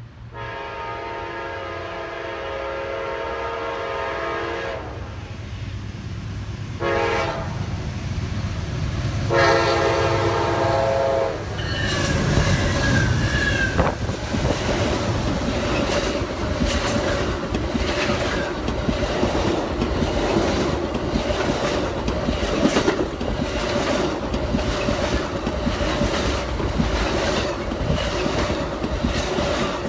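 Amtrak Auto Train's locomotive horn sounding a long blast, a short one and another long one. About twelve seconds in the train reaches the microphone and runs past loudly, its wheels clicking rapidly over the rail joints with a steady tone running through.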